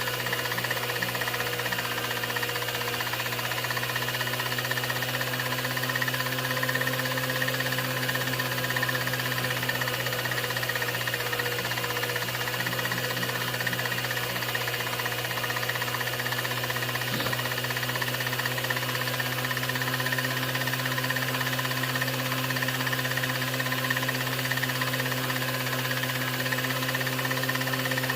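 Steady mechanical hum and hiss of a 16mm film projector running, unchanging throughout, with one faint tick about 17 seconds in.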